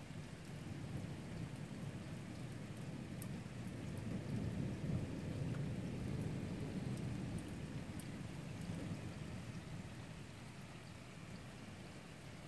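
A long roll of thunder over steady rain: the low rumble swells, peaks about halfway through and slowly dies away, while rain patters throughout.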